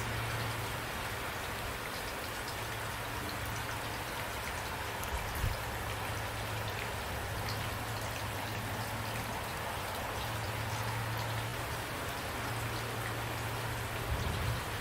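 Steady rain falling, an even dense hiss of drops. A low rumble comes and goes underneath, with a brief low thud about five seconds in and another near the end.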